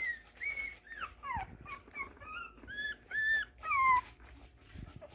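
Three-week-old Aussiedoodle puppy whimpering: a run of short, high-pitched whines and squeaks, several sliding down in pitch, the loudest coming about three to four seconds in.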